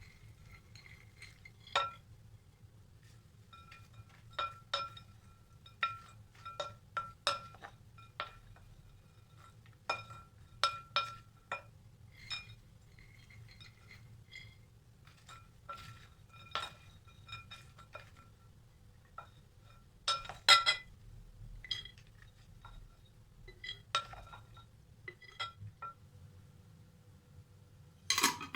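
Glassware clinking in a kitchen: a string of short, sharp clinks, each with a brief ring. The loudest clinks come about twenty seconds in and again near the end.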